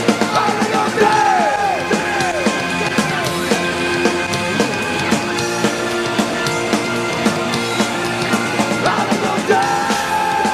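Punk rock band playing live, an instrumental passage with no vocals: drums, bass and electric guitars with a steady beat. Pitched notes slide downward a few times around the first two seconds, and a long held note starts near the end.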